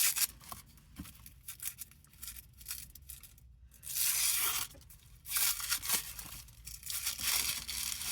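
Packaging being torn and crinkled as a sharpening stone is unwrapped, in a series of rustles, the longest about four, five and a half and seven seconds in.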